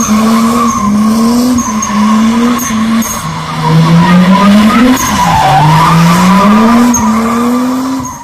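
Toyota Mark II's 1JZ-GTE turbocharged straight-six held high in the revs while drifting, its pitch climbing and dropping back again and again, over a steady squeal of spinning rear tyres. About five seconds in the revs dip, then climb slowly again.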